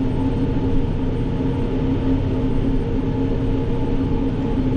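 Tractor and forage chopper running steadily: a continuous machine drone with a constant humming tone.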